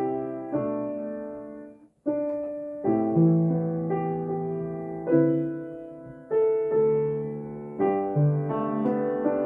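Solo piano playing a slow, gentle jazz-style hymn arrangement in sustained chords, struck about once a second. The sound cuts off briefly about two seconds in, then the chords resume.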